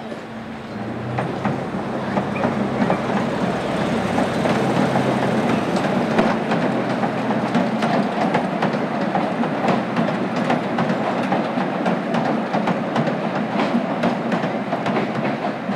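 Miniature zoo train cars rolling past at close range. The wheels on the rails make a steady rumble with many quick sharp clicks, building up about a second in, with a low steady hum in the first few seconds.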